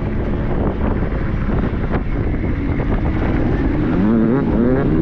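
Triumph 250 motocross bike's single-cylinder four-stroke engine under way, revving up and down. Its pitch climbs and drops repeatedly from about two and a half seconds in, over heavy wind noise on the microphone.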